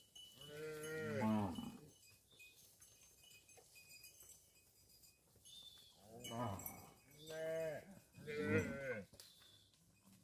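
Cows mooing: one long moo about half a second in, then three moos in close succession in the second half.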